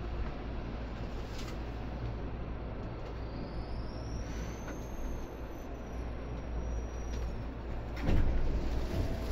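Seibu 2000 series electric commuter train heard from inside the car: a steady low rumble, with a faint high whine that rises a few seconds in and then holds. About eight seconds in, the noise gets louder with a broad rush.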